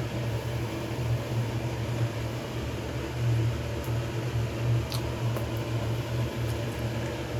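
Steady low hum of a fan running, with a short click about five seconds in.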